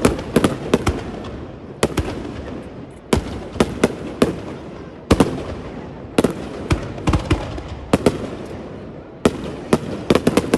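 Aerial fireworks bursting: clusters of sharp bangs every second or two, each trailing off in a rumbling echo.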